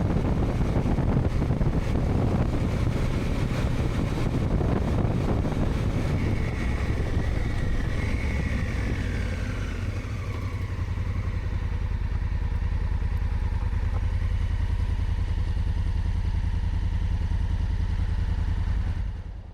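Motorcycle engine running steadily, low and even, with a tone gliding down in pitch about a third of the way through. It fades out near the end.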